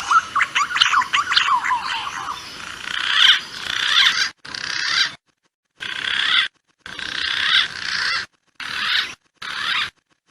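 Green pigeons (punai) calling: a dense tangle of whistled notes gliding up and down. In the second half the calls are cut by several abrupt gaps of complete silence, as in a spliced playback track.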